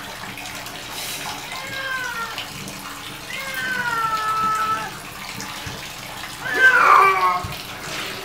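A cat yowling in protest at being bathed: three long meows, each falling in pitch, the last about six and a half seconds in the loudest, over water in the tub.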